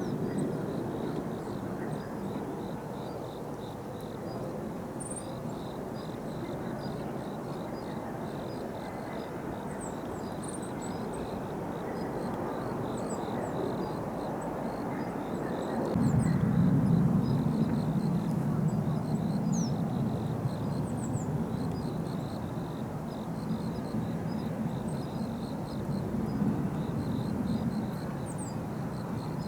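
Jet aircraft rumbling in the distance, growing louder about halfway through with a sudden rise and then slowly fading. A faint, high, steady pulsing chirr and a few short bird chirps sound above it.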